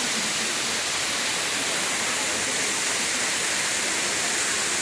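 Steady rush of water falling in a forest waterfall or cascade, an even hiss with no breaks.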